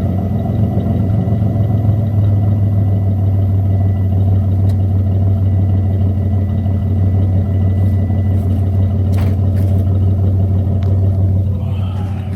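Mitsubishi 3000GT SOHC's 3.0-litre V6 running steadily at idle through an exhaust with gutted catalytic converters, with no revving. The owner suspects a slight exhaust leak where the front cat joins the exhaust manifold.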